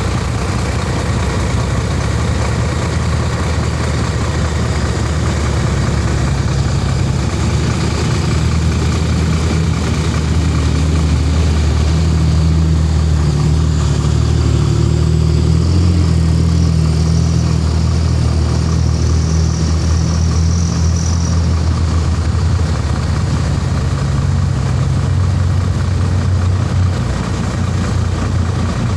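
Shacman heavy truck's diesel engine running as the truck pulls up a low incline, a steady low drone that grows louder about a fifth of the way in, is strongest around the middle, and eases off near the end.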